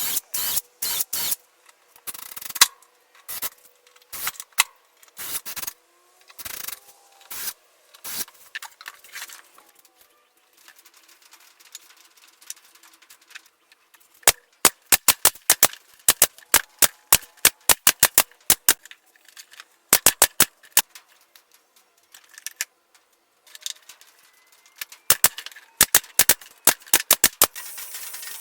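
Pumpkin J-F50 pneumatic brad nailer being fired. There is a string of short hissing bursts about every half second, then, after a pause, quick runs of sharp shots several a second, in three groups.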